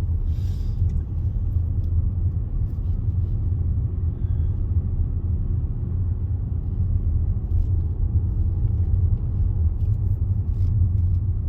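Steady low road and engine rumble of a car heard from inside the cabin while driving.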